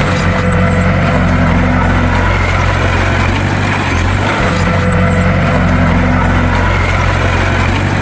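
A bulldozer's diesel engine running steadily with a deep, even drone.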